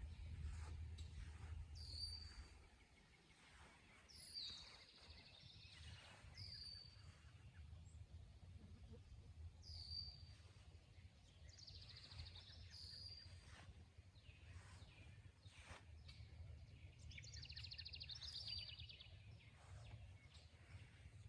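Faint birdsong: short, high whistled notes repeated every couple of seconds, with a brief buzzy trill near the end, over a low steady rumble.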